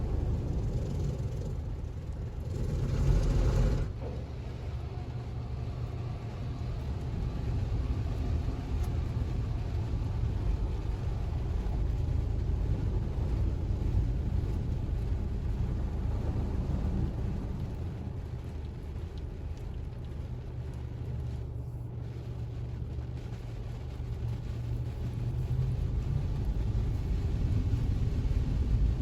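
Tandem Protouch automatic car wash in its pre-soak stage, heard from inside the car: a steady low rumble of the wash machinery and spray. About two and a half seconds in, a louder whoosh swells and cuts off sharply at about four seconds.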